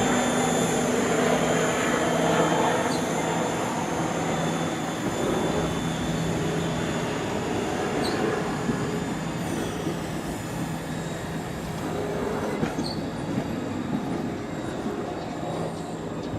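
A train running by on the tracks, with steady wheel-on-rail rumble and a thin high squeal, slowly getting quieter.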